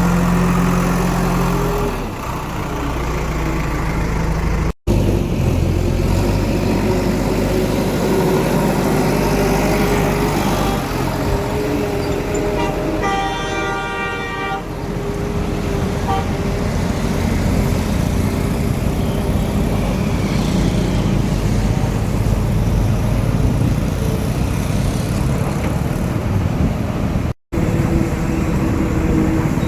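Diesel engines of a backhoe loader and tractors running steadily, with a vehicle horn sounding once for about a second and a half near the middle. The sound cuts out briefly twice.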